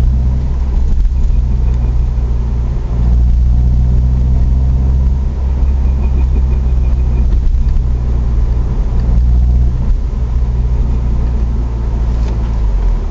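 Subaru Legacy's flat-four engine and drivetrain running on the road with a steady low rumble. A faint, rapidly repeating high squeak comes in briefly about a second in and again for a couple of seconds around six seconds in: the drivetrain squeaking/whining the owner gets when decelerating in 3rd and 4th gears. A short sharp sound comes near the end.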